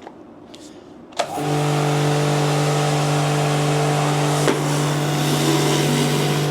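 V-TUF V7 2.5 kW brushless electric pressure washer starting up after a click about a second in, then running steadily: a low motor and pump hum over the hiss of water jetting from a patio cleaner head. A second click comes a few seconds later.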